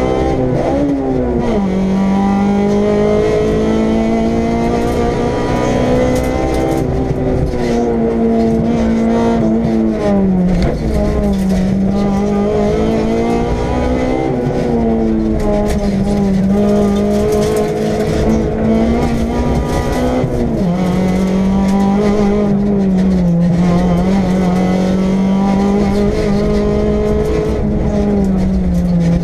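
Honda Civic EG6 VTi rally car's 1.6-litre VTEC four-cylinder engine running hard at speed, heard from inside the cabin over road rumble. The engine note keeps rising and falling with the throttle, and drops suddenly in pitch about ten and twenty seconds in.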